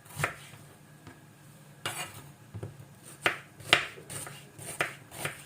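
Kitchen utensils and dishes clinking: about half a dozen separate sharp knocks at irregular intervals.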